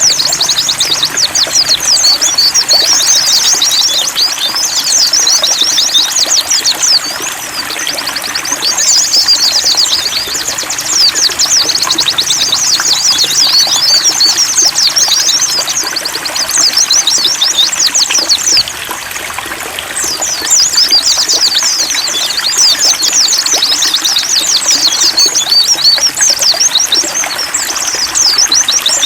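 Pleci (white-eye) song: rapid, high-pitched twittering in long runs that ease off twice, over a steady trickling of water.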